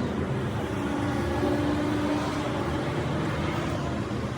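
A car engine running steadily with a low rumble, with a faint tone that shifts slightly in pitch.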